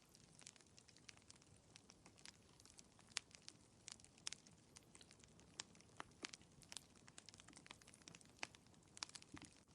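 Wood fire crackling: a faint steady hiss with irregular sharp pops and snaps, several a second.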